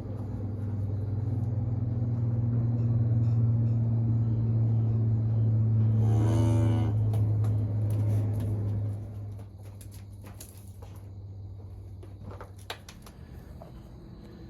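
A cow moos once, about six seconds in, over the steady low hum of a running vehicle engine. The engine hum drops away about nine seconds in, leaving a quieter background with a few light knocks.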